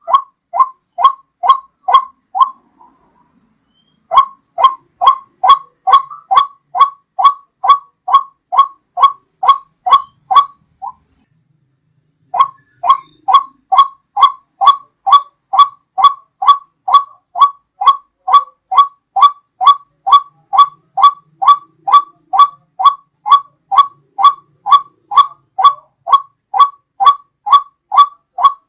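White-breasted waterhen (ruak-ruak) call played as a hunting lure: a loud, clear note repeated about two to three times a second. The runs break off twice, briefly, near the start and about a third of the way through.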